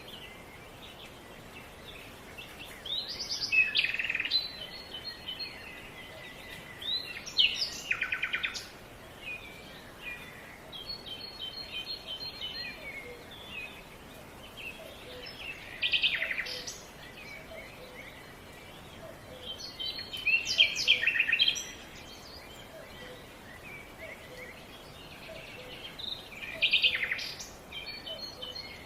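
Songbirds singing, short phrases of quick high notes and trills coming every few seconds, over a faint steady outdoor hiss.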